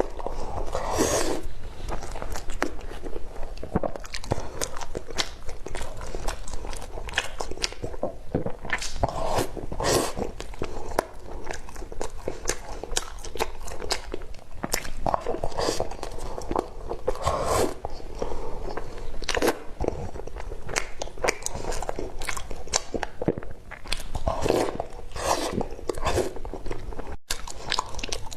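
Close-miked eating sounds: a person biting and chewing, with repeated crunches and wet clicks.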